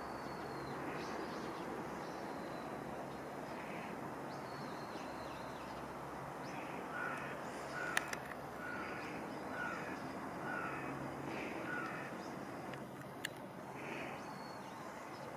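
A bird calling a run of about six short, evenly spaced calls, starting about seven seconds in, over a steady outdoor background hiss. Two sharp clicks stand out, one about eight seconds in and one about thirteen seconds in.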